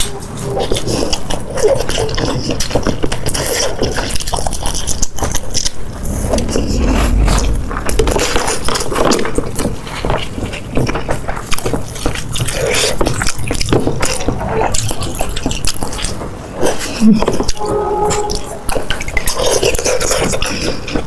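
Close-miked eating sounds: a person biting and chewing food, with dense crackling clicks and wet smacking throughout.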